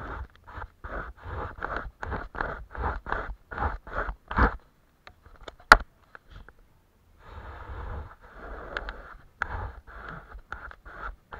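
Close-up rasping strokes of a paintbrush on paper, about two short strokes a second, with a pause about five seconds in broken by one sharp click, then the strokes resume.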